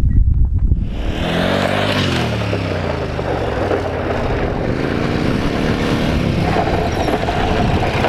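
Adventure motorcycle engine running, its pitch falling and rising as the bike rides on loose dirt, with a heavy rush of tyre and gravel noise. The first second is wind rumble on the microphone before the engine sound comes in.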